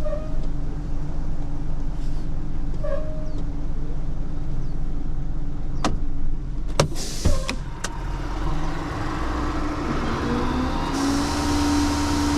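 Tow truck's engine running steadily while it maneuvers on a gravel driveway, with a few sharp clicks and knocks a little past halfway. A steady whine joins the engine near the end.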